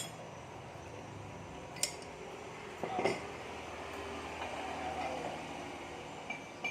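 A few light metallic clinks and knocks from metal parts and tools being handled, one about two seconds in and a small cluster about three seconds in, over a steady low workshop hum.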